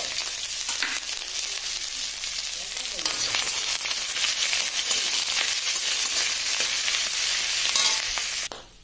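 Chopped ginger and crushed garlic sizzling hard in hot oil in a kadai, full of fine crackles as the moisture fries off. Near the end a spatula stirs through it, and then the sizzle drops away suddenly.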